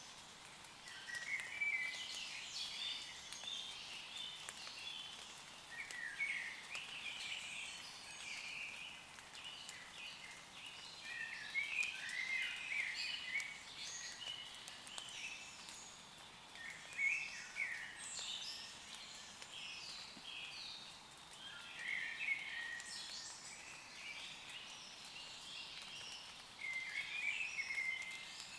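Woodland birds singing, a burst of song phrases every few seconds, over a faint, steady hiss of light rain falling on leaves.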